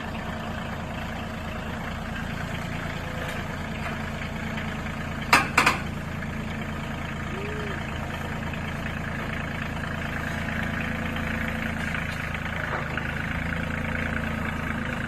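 Kioti CX2510 compact tractor's diesel engine running steadily, with two or three sharp knocks a little over five seconds in.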